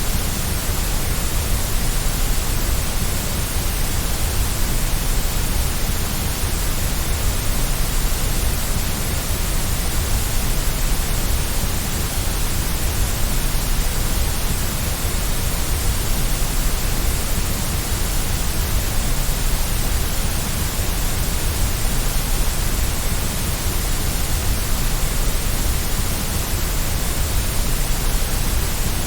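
Steady white noise for soothing a baby to sleep: a constant, even hiss that does not change.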